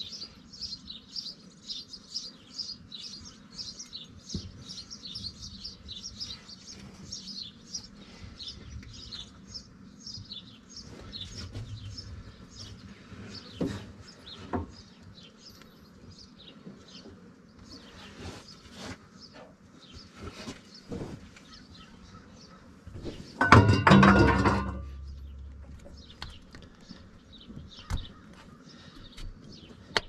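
Small birds chirping in quick, repeated short high notes, busiest in the first third, with a few sharp clicks. A loud burst of sound about a second and a half long comes a little before three-quarters of the way through.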